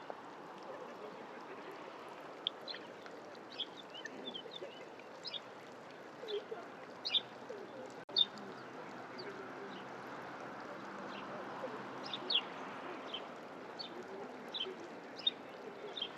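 Several small birds chirping: many short, high calls a second or so apart, over a steady background hiss of open air.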